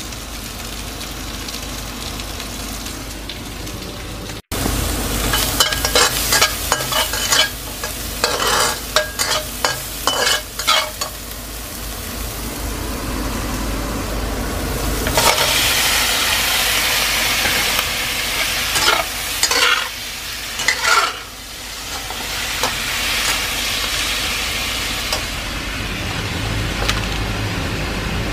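Cubed potatoes and carrots frying in oil in a stainless steel pan, with a spatula clattering and scraping against the pan as they are stirred. From about halfway through, the sizzling grows louder and denser, which fits chicken pieces going into the hot oil, with a few knocks of the utensil on the pan.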